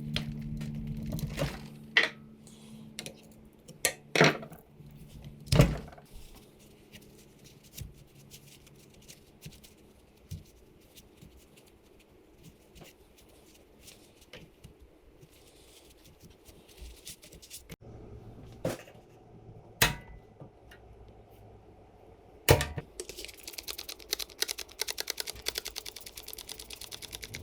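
Metal tools and engine parts handled on a workbench: a low hum that stops about a second and a half in, then scattered sharp clunks and knocks, and a fast, even ticking over the last few seconds.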